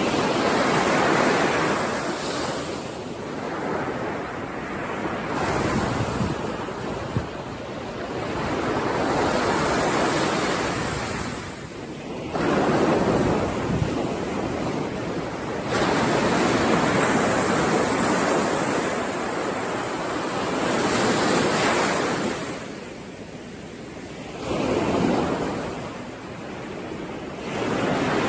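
Sea waves breaking and washing ashore, a rushing hiss that swells and falls back every few seconds.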